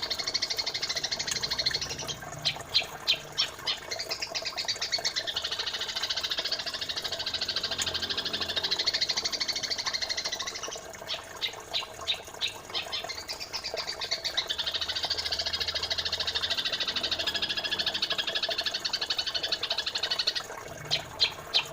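Looped bird-song training recording of white-shouldered triller and sped-up Eurasian tree sparrow song. It is a dense, high, fast chatter broken about every nine seconds by a quick run of loud, sharply separated notes.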